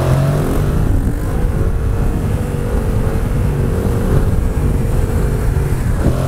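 Yamaha MT-07's parallel-twin engine running at speed, its pitch climbing a little over the first two seconds and then holding steady. Heavy wind rumble on the helmet-mounted microphone runs under it.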